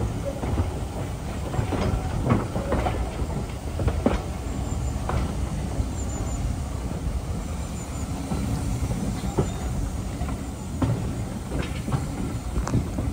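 Train rolling along the track: a steady low rumble with irregular clicks and knocks from the wheels running over the rails.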